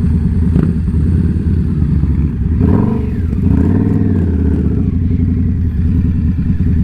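Indian Scout Bobber's V-twin engine running steadily under way, with a change in engine pitch about three seconds in.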